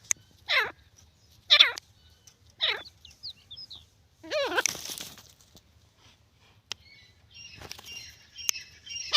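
Grey francolin calling: three harsh falling notes about a second apart, then a longer, louder call about four and a half seconds in. Fainter twittering of small birds joins from about seven and a half seconds.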